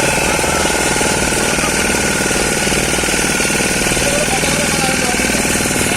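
Motorboat engine running steadily, with a rapid, even chugging.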